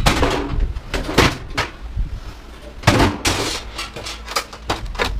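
Knocks and clatter of metal parts as a washer/dryer combo is pried and pulled apart: a few hard knocks, then a run of quicker, lighter rattles near the end.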